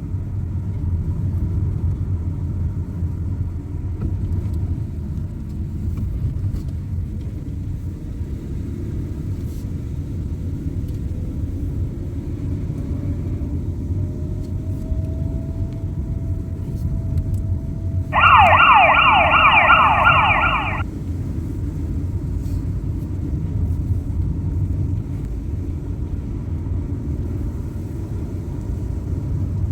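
Steady low rumble of a car driving on the road, broken about two-thirds through by a short burst of a fire engine's siren, a fast yelping warble lasting about two and a half seconds and louder than the road noise.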